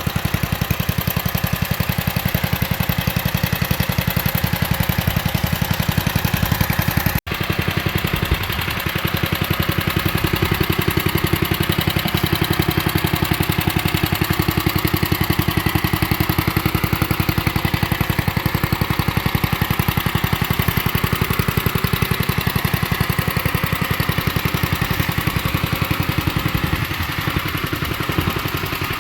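1967 Unico tractor's 7 hp Briggs & Stratton single-cylinder engine running steadily on its freshly rebuilt carburetor, with the deck not yet engaged. The sound breaks off for an instant about seven seconds in.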